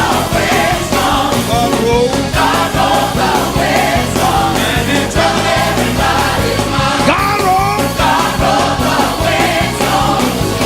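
Gospel music: a full band with a steady beat under singing voices whose pitch bends and slides, with no clear words.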